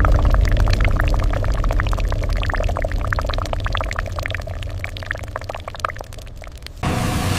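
Liquid pouring and splashing in a heavy stream: a low rumble full of small irregular splashes and gurgles. Near the end it cuts off suddenly to a steadier hiss-like noise.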